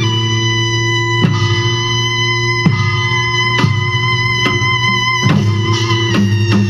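Korean traditional music accompanying a Jindo drum dance: a held, sustained instrumental melody line over drum strokes that fall roughly once a second.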